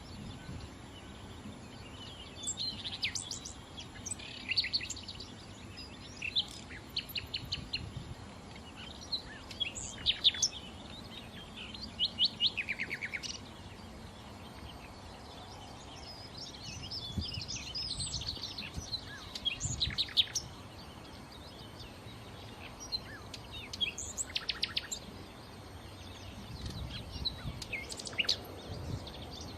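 Nightingale singing: varied phrases, many of them fast runs of repeated notes, broken by short pauses.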